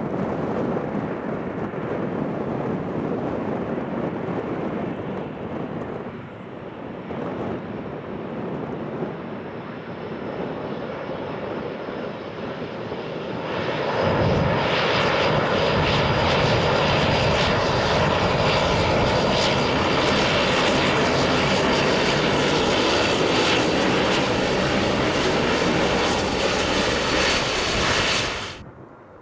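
Airliner engines running, growing louder about halfway through with a steady high whine over the noise, then cutting off abruptly near the end.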